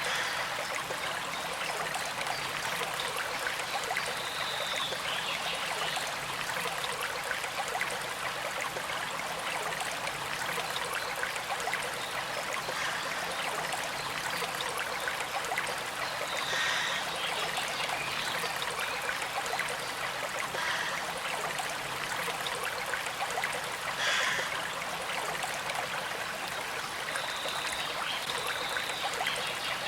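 A small creek flowing steadily, a continuous trickling rush of water with a few brief higher-pitched accents in it.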